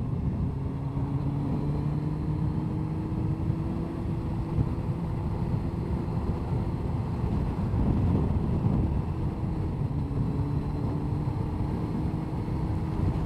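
Honda CBR1100XX Blackbird's inline-four engine running steadily under way, with road and wind noise mixed in.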